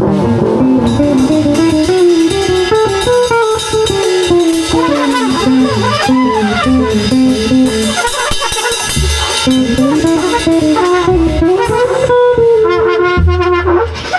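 Live jazz-style band improvising: a winding lead melody over bass notes and a drum kit, with guitar.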